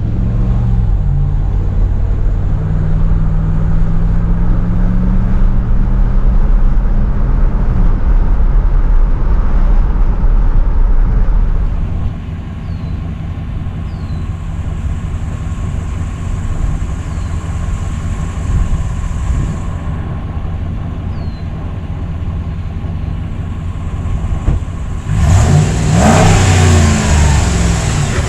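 Ram 1500's 5.7-litre HEMI V8 pulling, its note rising over the first several seconds, then settling into a quieter, steady run. Near the end a loud rush of noise comes in, with engine notes that shift and fall.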